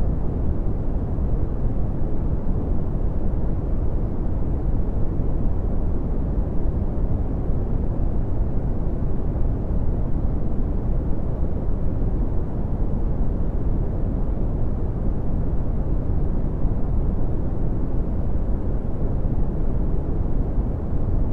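Red (Brownian) noise: a steady, deep rumbling hiss with its energy in the low frequencies and little above about 1 kHz, unchanging throughout.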